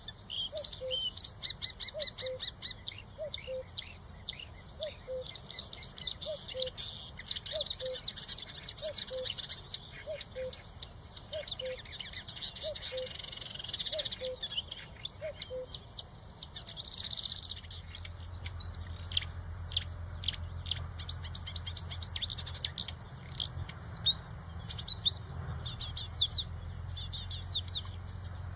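Songbirds chirping and twittering, many quick high notes overlapping, with a low note repeating a little more than once a second through the first half. A low steady hum joins about two-thirds of the way in.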